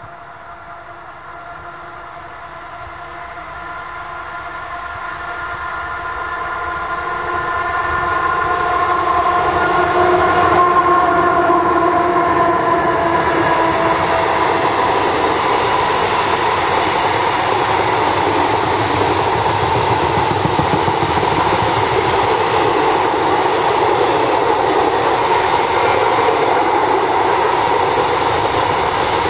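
Freight train passing: an electric locomotive hauling a long rake of open wagons approaches, growing steadily louder over the first eight seconds or so. A chord of steady tones sounds as the locomotive goes by, then the wagons' wheels run past on the rails in a loud, steady rumble.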